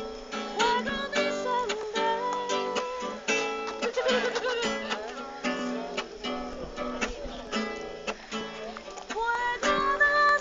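Acoustic guitar strummed in repeated chords, an instrumental passage between lines of a worship song.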